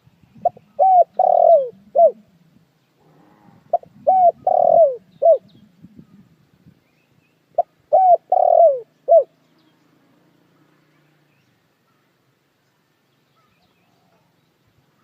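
Puter dekukur dove cooing three times. Each phrase is four falling notes, the third one longest, and the phrases come about three and a half seconds apart.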